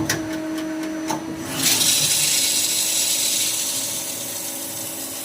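CNC machine running with a steady hum and a few clicks, then a loud rushing hiss that starts suddenly about a second and a half in and slowly dies away.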